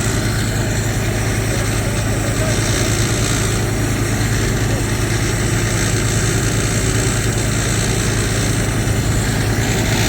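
An engine running steadily at idle, with a constant low hum and no change in speed.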